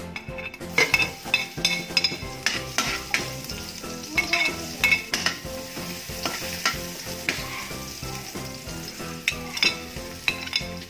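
Chopped garlic, ginger and onion sizzling as they are dropped into a hot aluminium wok, starting about a second in. A metal spatula scrapes and clicks against the pan and the plate as the aromatics are stirred.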